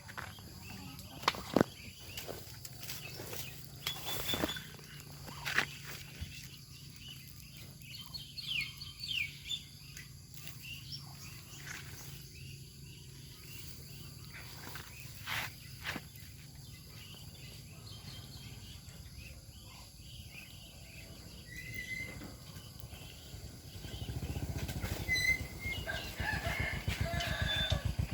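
A family of ducks feeding: scattered sharp clicks like bills pecking and dabbling at food, with a few short high chirps. A louder low rumble comes in about four seconds before the end.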